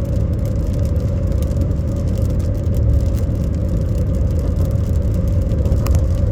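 Steady cabin noise of a car being driven: a low road and engine rumble with a steady hum, and a single short click near the end.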